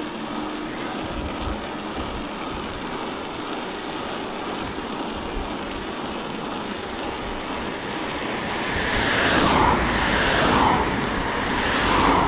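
Road traffic passing with wind rushing over the microphone of a moving bicycle; from about eight seconds in it grows louder as vehicles go by, their sound falling in pitch as they pass.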